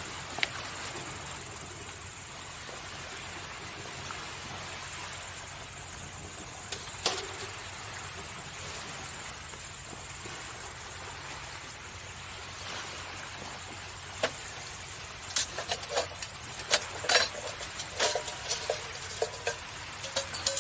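Burning firewood crackling and popping in a campfire: a few lone pops, then a quick run of crackles in the last five seconds or so. Under it, a steady hiss of waves washing on the shore.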